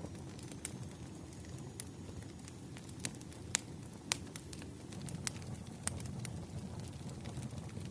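Wood fire crackling: irregular sharp pops, a few louder ones near the middle, over a low steady rumble of the burning logs.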